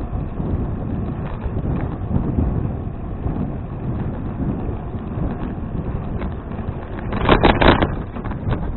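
Wind buffeting an action camera's microphone while cycling, a steady low rumble. About seven seconds in comes a short burst of louder rattling.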